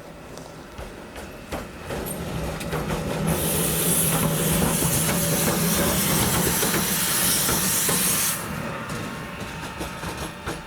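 Train at close range with a loud hiss of air venting that starts suddenly about three seconds in and cuts off sharply some five seconds later. A steady low hum and scattered clicks run underneath.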